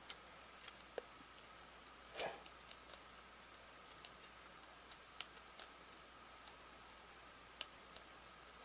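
Faint, sparse small clicks and taps at irregular intervals, with a soft rustle about two seconds in and a faint steady hum underneath.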